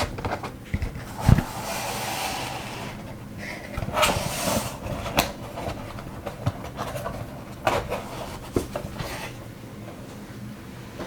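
Small plastic items and packaging being handled and set down: scattered clicks, taps and light knocks, with rustling about two seconds in and again around four seconds.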